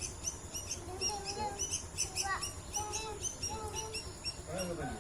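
White-breasted waterhen chicks peeping: rapid, high-pitched short chirps, several a second, running on continuously.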